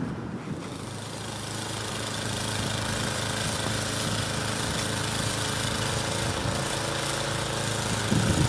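Engine of a snow-clearing machine running steadily, growing louder over the first couple of seconds.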